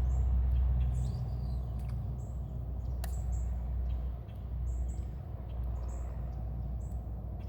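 Short, high bird chirps repeating every second or so over a steady low rumble, with a single sharp click about three seconds in.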